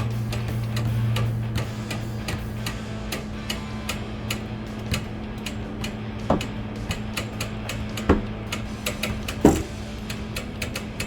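Crank dent puller ratcheting, a long uneven run of sharp clicks as it is cranked to pull a body-line dent, with three louder knocks about six, eight and nine and a half seconds in. A steady low hum runs underneath.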